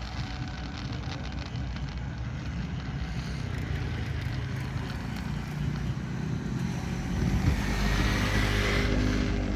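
Motor vehicle engine running with a steady low rumble, growing louder near the end as it comes closer.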